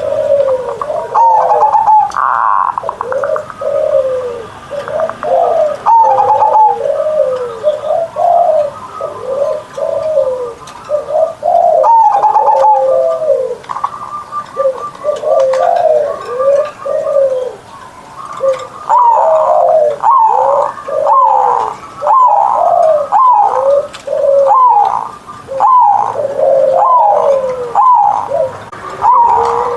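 Zebra dove (perkutut) singing its full cooing song in a big, rolling, burring voice: one coo phrase after another, coming faster and denser in the last third.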